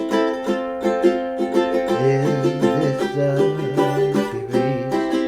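Instrumental music: chords strummed on a plucked string instrument in a steady rhythm, with a lower bass line that drops in and out. No singing.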